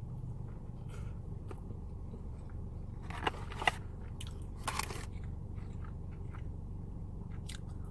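Close-miked eating: crunchy bites and chewing of ranch-dipped food, with a few sharper crunches in the middle and near the end, over a steady low hum.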